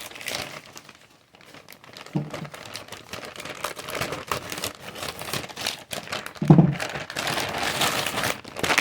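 Packaging crinkling and rustling as a delivery package is opened by hand, with a brief lull about a second in. Two short low sounds stand out, about two seconds in and near the end, the second the loudest.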